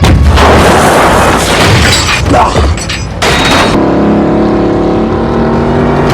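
Action-film vehicle sound effects: a sudden loud crash at the start and rough crashing noise, then a steady engine drone from a little past halfway.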